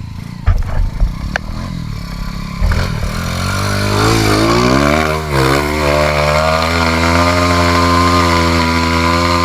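Dirt bike engine revving up and held at high revs under load on a steep hill climb, with a brief drop in revs about halfway through. A few sharp knocks in the first two seconds.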